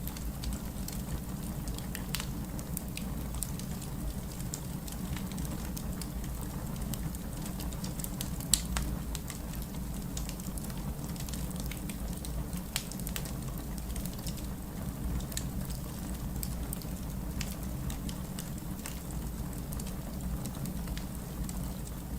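Steady rain with a wood fire crackling, sharp pops scattered irregularly through it, the loudest about eight and a half seconds in.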